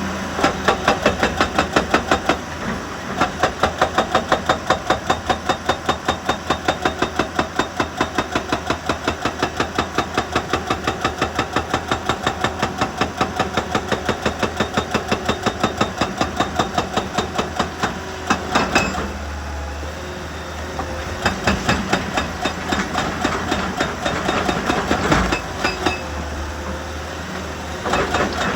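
Heavy quarry machinery pounding rock in a fast, even rhythm of about five blows a second over a running diesel engine. The pounding stops about 18 seconds in, starts again a couple of seconds later and stops again near the end.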